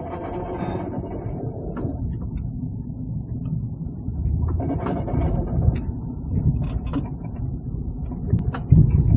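2004 Honda Pilot pulling away from a stop, making an odd mechanical noise under acceleration: a low rumble with irregular clicks and knocks over it, and a strong knock near the end.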